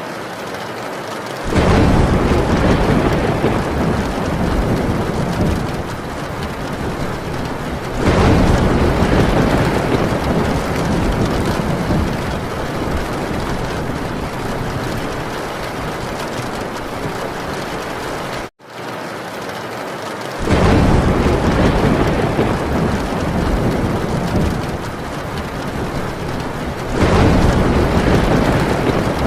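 Heavy rain pounding on a tin roof, with thunder rolling in four times, each swell of low rumble fading over several seconds. The sound cuts out for an instant about two-thirds of the way through.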